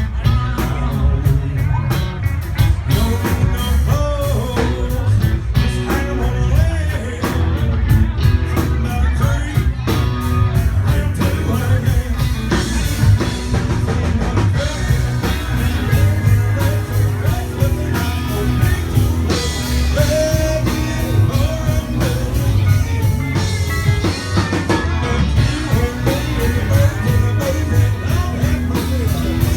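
Country-rock band playing: drum kit, bass and electric guitar with a steady beat, and a bending melodic line over the top.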